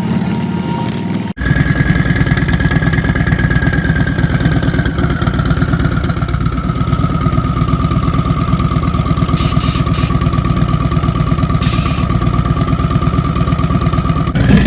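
Motorcycle engine running steadily with a rapid even pulse, over a high whine that sinks slightly in pitch. It starts abruptly just over a second in, after a sudden break.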